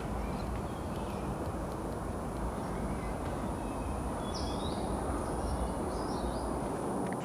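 Tropical forest ambience: a steady low rumble with a thin high whine held throughout, and a few quick bird chirps about four to five seconds in.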